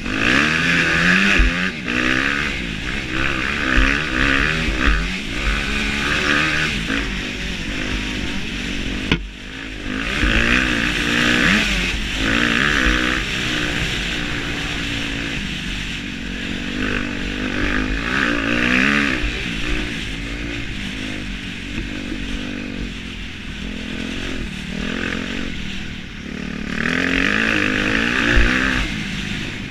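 Motocross bike engine revving hard and easing off over and over, its pitch rising and falling, with a steady rushing noise over it and a brief drop about nine seconds in.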